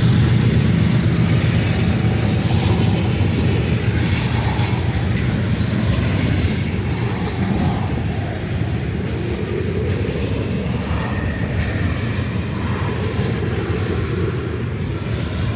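Freight train rolling past: a steady rumble of the cars on the rails that gradually gets quieter.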